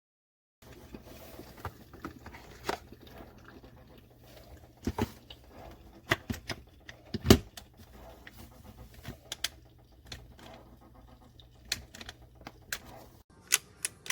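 Irregular clicks and knocks of objects being handled, over a low steady hum; the loudest knock comes about seven seconds in.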